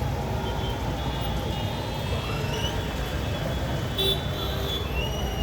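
Street traffic in a jam: a steady low rumble of vehicle engines, with a few short horn toots and a brief sharp sound about four seconds in.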